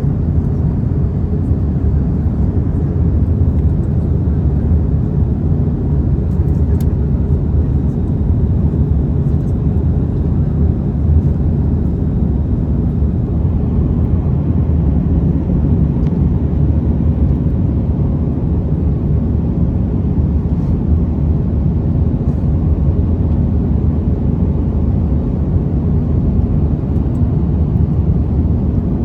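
Steady cabin noise inside an Airbus A321 in flight: a constant low rumble of the engines and the airflow, with a faint steady hum.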